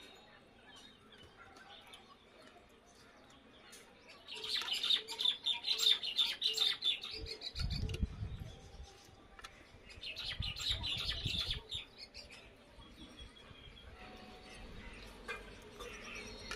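Small birds chirping in two spells of quick, high twittering, the first about four seconds in and the second about ten seconds in. A brief low rumble sits under the first spell.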